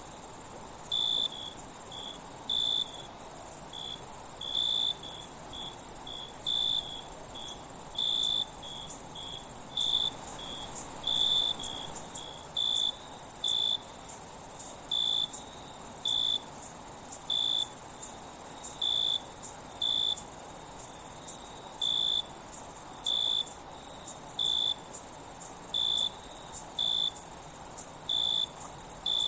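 Night insect chorus: a steady, high-pitched trill with a cricket chirping over it about once a second. The sound dips for an instant a few times.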